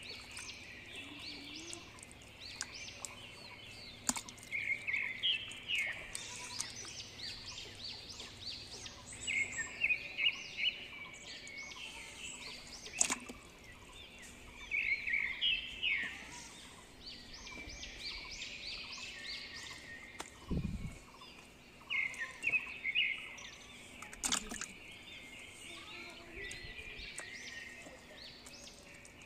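Small birds chirping in quick runs of repeated notes every few seconds. There are a few sharp clicks, and one low thump about two-thirds of the way through.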